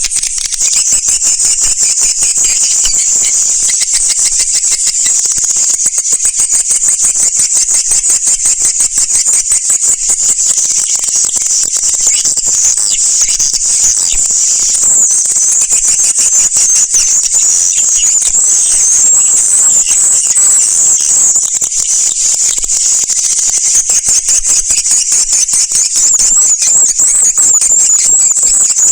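Swiftlet calls: a dense, continuous, high-pitched chirping and twittering of many birds, fast and unbroken. It is a swiftlet calling recording of the kind played to draw swiftlets into nesting houses.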